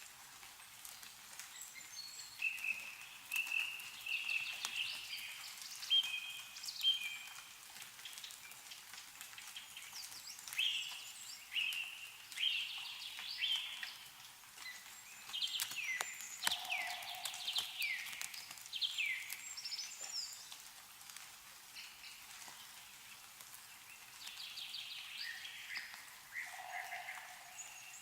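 Small birds chirping and singing over and over, in short downward-sliding calls, while meltwater drips from snow-covered trees in scattered light ticks.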